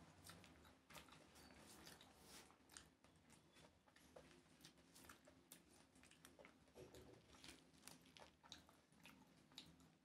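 Faint, irregular chewing and mouth clicks as a mouthful of jeera rice and curry is eaten, with fingers mixing rice and curry on a banana leaf.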